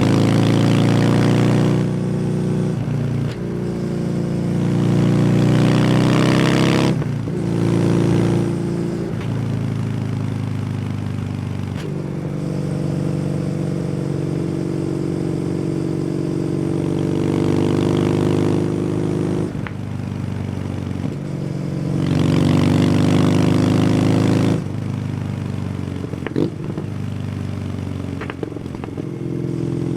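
Kawasaki W800's air-cooled parallel-twin engine through an SC Project exhaust, ridden at road speed. The engine note rises as the bike accelerates and drops sharply at several gear changes and throttle let-offs, with louder, rougher stretches under harder throttle.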